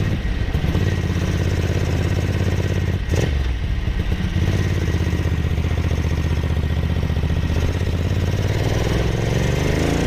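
Ducati 900SS bevel-drive air-cooled 90° V-twin running steadily under way, its freshly rebuilt engine pulling smoothly. The engine note briefly breaks about three seconds in, then carries on steady.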